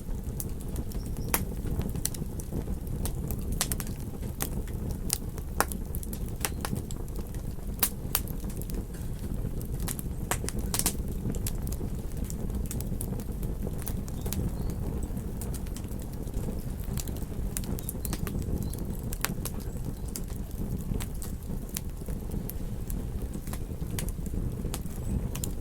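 Campfire crackling, with irregular sharp pops and snaps scattered through, over a steady low rumble.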